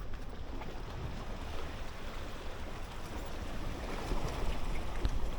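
Wind buffeting the microphone over the steady wash of sea surf, growing a little louder about four seconds in.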